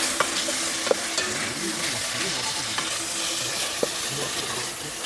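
Food sizzling as it fries in a hot pan, a steady crackling hiss, with a few sharp clicks.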